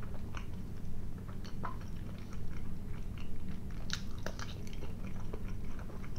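A man chewing and biting a sausage eaten with mustard: close wet mouth sounds with scattered small clicks and smacks, over a steady low hum.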